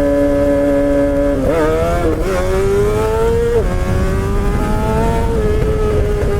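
Suzuki GSX-R600 K7 inline-four with a straight-piped exhaust and no catalytic converter, under way and accelerating hard. It holds a steady pitch, drops sharply at an upshift about a second and a half in, and revs climb again. A second upshift comes about three and a half seconds in, followed by a further climb that levels off near the end.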